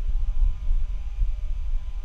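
Deep, unevenly churning rumble with faint steady tones above it: the noise of a bad microphone.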